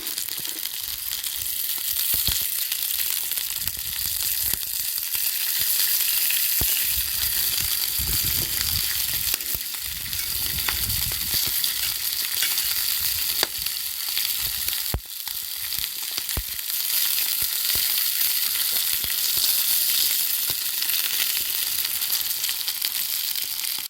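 Food frying in hot oil in a pan, a steady sizzle with scattered sharp pops.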